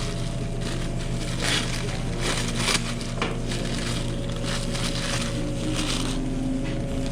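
Working restaurant-kitchen line: a steady low hum under irregular short bursts of rustling, crunching and clattering as containers and ingredients are handled.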